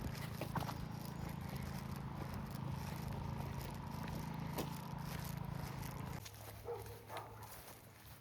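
A steady low hum that cuts off suddenly about six seconds in, followed by faint scattered small sounds.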